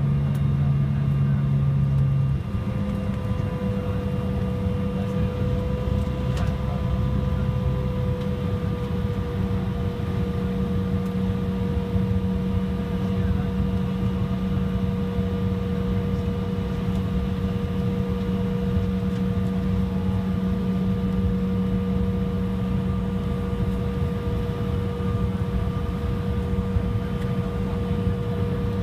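Steady hum and whine of an airliner's cabin air and power systems while the aircraft waits at the gate, with several constant tones over a low rumble. One low tone cuts out about two seconds in and the sound drops slightly.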